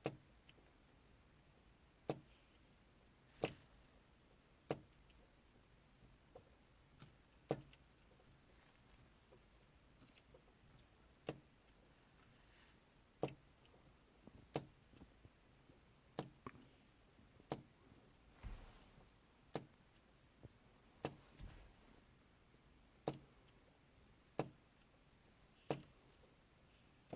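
Superb fairy wrens tapping and pecking at the car: sharp single taps at irregular intervals, about one every second or two, with a few faint high chirps.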